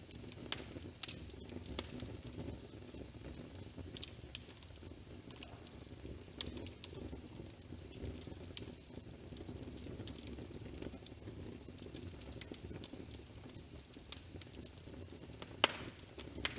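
Wood fire crackling: a steady low rumble with irregular sharp pops and snaps, one louder snap near the end.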